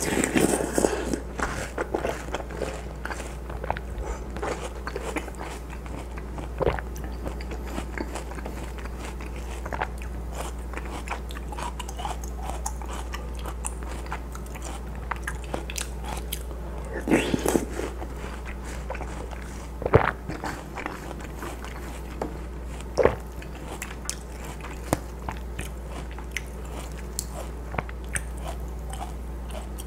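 Close-miked biting and chewing of juicy watermelon chunks from watermelon hwachae: wet crunching and clicking mouth sounds, louder in clusters about 17, 20 and 23 seconds in, over a steady low hum.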